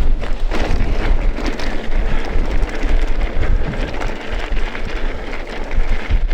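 Strong wind buffeting the action camera's microphone with a heavy rumble while a mountain bike rolls downhill over a rough, stony track, with frequent small knocks and rattles from the bumps.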